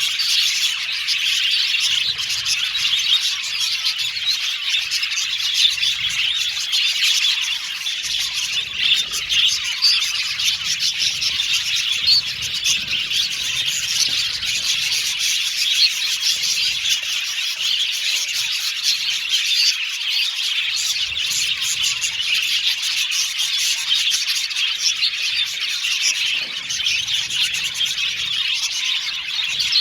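A flock of budgerigars chirping and warbling together in a dense, continuous chatter, with squawks now and then.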